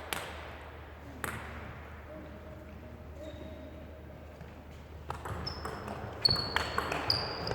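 Celluloid-style plastic table tennis ball bouncing: a couple of single clicks early on, then from about five seconds in a series of quick bounces with a short high ping each, coming closer together.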